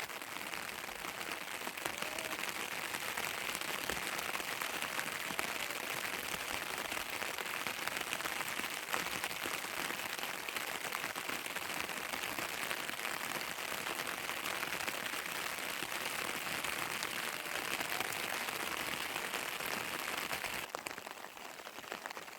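Heavy rain falling steadily, a continuous hiss of drops that eases a little near the end.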